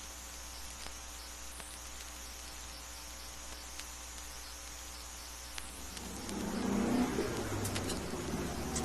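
Quiet outdoor background with a rapid, repeating high chirping, then about two-thirds of the way through a road vehicle's engine comes in, approaching and growing louder.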